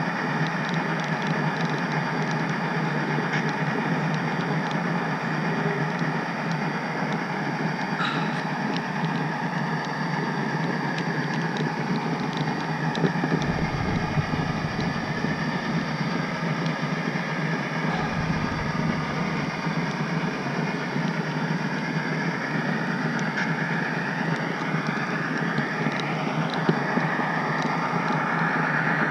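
HO-scale model train rolling along the track, a steady running noise from the wheels on the rails, with a few gliding whines near the end.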